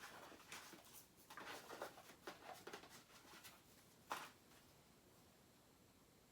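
Faint rustling and light clicks of stickers being handled and drawn from a box, with one sharper click about four seconds in.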